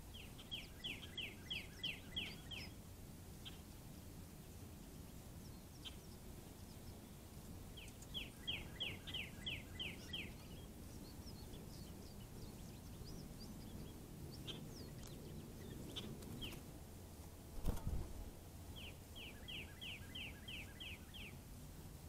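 A songbird's song of about nine quick, evenly repeated notes, sung three times several seconds apart, with scattered faint chirps between, over a steady low background. A short low thump about eighteen seconds in is the loudest sound.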